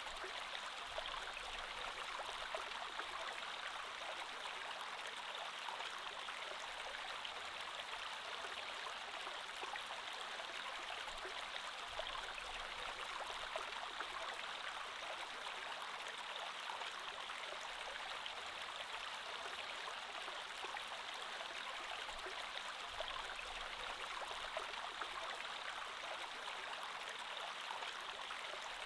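Creek water flowing steadily: an even, unbroken rush of running water.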